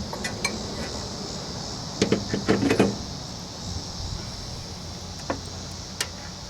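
Metal clinks and knocks of parts and hand tools being handled while a mower deck idler pulley is fitted, with a cluster of louder knocks about two seconds in and a few single clicks later. Crickets chirp steadily in the background.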